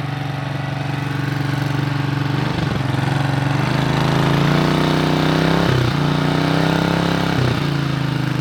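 Small Briggs & Stratton engine running through a homemade muffler made from an oil filter on a pipe elbow. The engine speed picks up about three and a half seconds in, and the pitch dips briefly three times.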